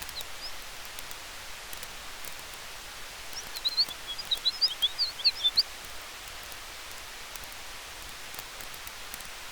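Campfire crackling with scattered light pops over a steady hiss of wind in the trees. About three and a half seconds in, a quick burst of high, rapid chirps, like a small bird twittering, lasts about two seconds and is the loudest sound.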